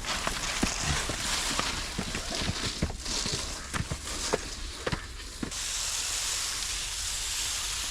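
Food frying in hot oil: a steady sizzle with many sharp crackles that thin out about five seconds in, leaving an even hiss.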